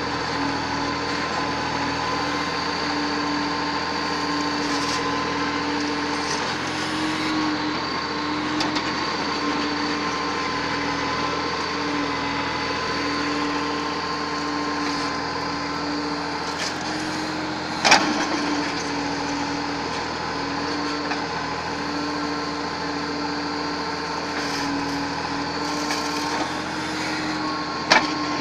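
Backhoe loader's diesel engine running steadily, with two sharp knocks, one about two-thirds through and one near the end.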